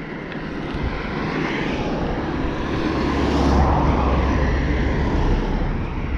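A motor vehicle passing close by: a rush of engine and tyre noise that builds, peaks a little past the middle and fades again.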